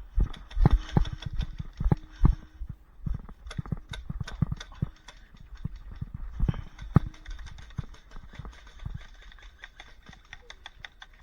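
Irregular heavy thuds of footsteps and gear knocking as an airsoft player moves, about two or three a second, loudest in the first half and thinning out near the end.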